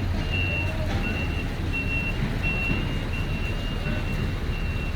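A vehicle's warning beeper sounding a short high beep over and over, about seven beeps, evenly spaced, over the steady low hum of an idling engine.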